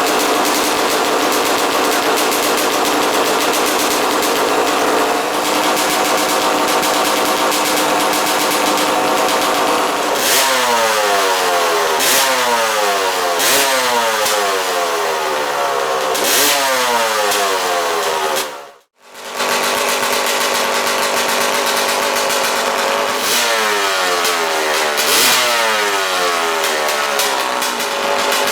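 Two-stroke dirt bike engine idling, then blipped on the throttle again and again from about ten seconds in, each rev dropping back to idle. It cuts out for a moment past the halfway point, then resumes idling with more blips.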